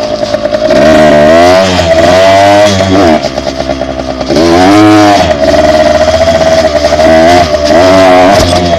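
Dirt bike engine under way, loud and close, its pitch repeatedly climbing and falling as the throttle is opened and backed off.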